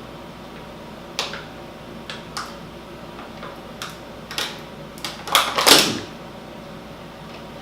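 Eating sounds close to the microphone: scattered short, sharp smacking clicks of someone chewing a doughnut, with a louder cluster of smacks about five and a half seconds in.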